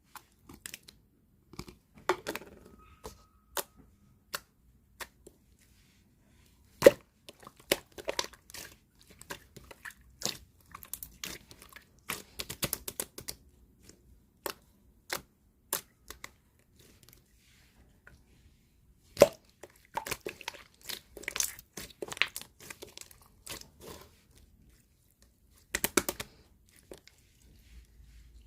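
Clear slime being worked by hand, giving irregular sharp clicks and pops in clusters, with short quiet pauses between handfuls.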